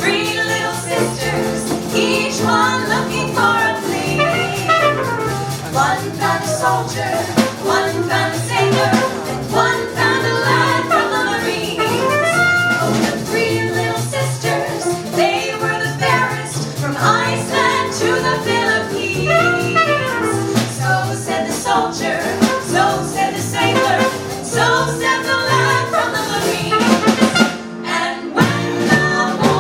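Live swing-style jazz music from a band, with a steady beat and a brief break near the end.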